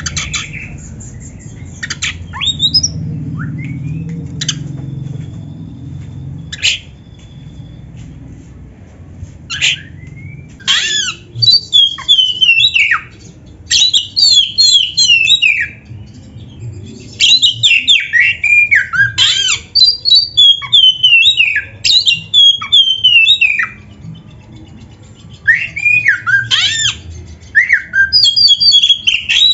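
Oriental magpie-robin (kacer) singing: a few sharp single calls at first over a low rumble that fades out, then loud bursts of quick, mostly falling whistled notes, repeated with short pauses.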